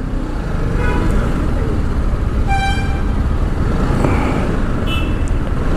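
Street traffic heard from a moving motorcycle: a steady rumble of engine and road noise with vehicle horns. One horn sounds for about half a second around two and a half seconds in, and shorter toots come about a second in and near the end.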